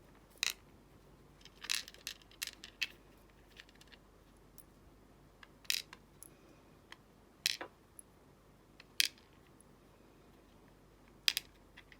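Irregular, sharp metallic clicks and taps, about a dozen, of small lock parts and tools being handled as a pin-tumbler padlock cylinder is worked apart for disassembly.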